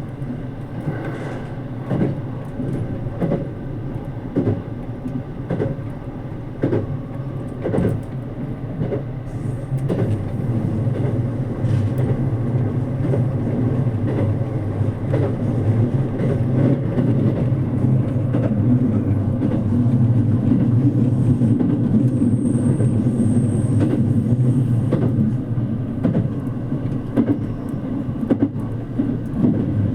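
Running noise heard inside a JR Kyushu 787 series electric express train: a steady rumble with regular clicks of the wheels over rail joints, growing louder from about halfway through.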